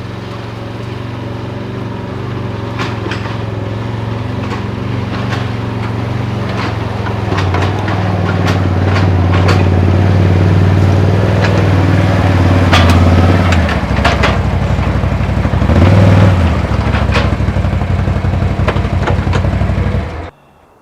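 ATV engine running steadily, its pitch shifting a few times, with rattling clacks of loose gear over it; the sound cuts off suddenly near the end.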